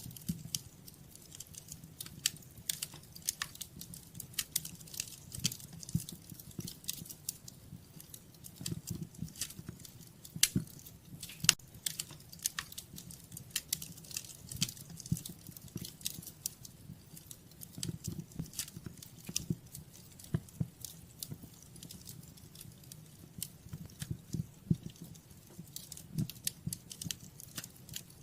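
Wood fire crackling in a fireplace: irregular sharp snaps and pops, several a second, over a low steady rumble of the burning.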